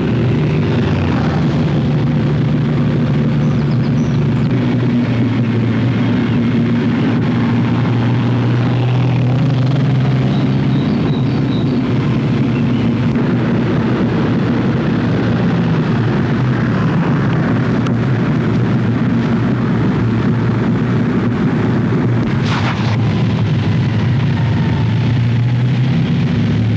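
Ferrari sports car engines running at speed on a race circuit, a steady, unbroken drone.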